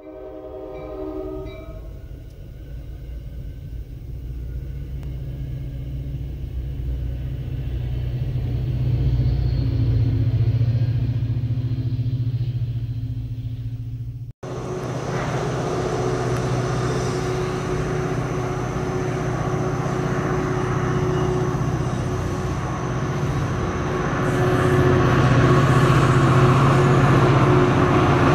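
NJ Transit diesel push-pull commuter trains at grade crossings, in two recordings joined by an abrupt cut about halfway through. After a few short ringing notes at the start, a steady low train rumble swells and eases. After the cut, a second train's rumble with a constant hum grows louder toward the end.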